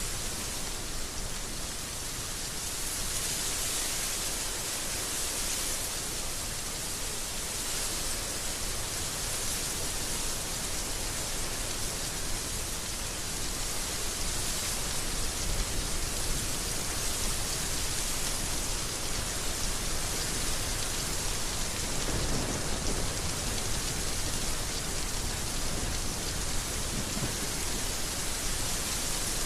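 Heavy rain falling steadily in an even hiss, with a low rumble of thunder swelling about two-thirds of the way through.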